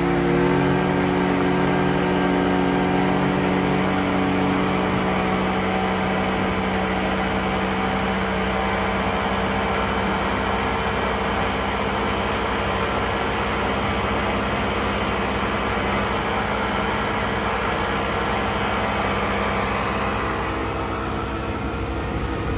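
Motorboat engine running steadily, its pitch dropping as it throttles back at the start, over a constant rush of wind and water.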